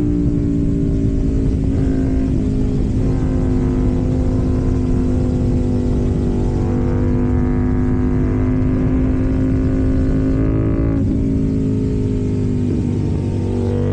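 KTM Duke 790's parallel-twin engine through an Arrow full exhaust system, running at fairly steady revs while riding, its note gliding slightly. About eleven seconds in the note breaks briefly, then carries on steady.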